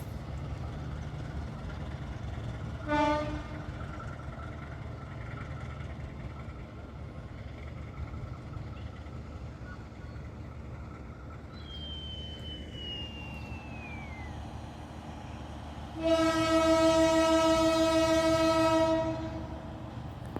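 Diesel locomotive idling with a steady low rumble, sounding its horn: a short toot about three seconds in, then a long blast of about three seconds near the end. A faint thin whistle falls in pitch midway.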